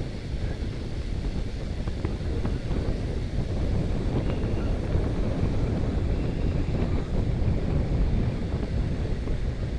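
Wind rushing over the microphone of a camera riding on a moving bicycle: a steady low rumble.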